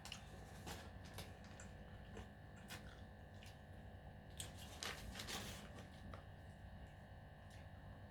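Quiet close-up eating sounds: a person chewing, with scattered soft mouth clicks and a louder crunchy burst about five seconds in, over a steady low hum.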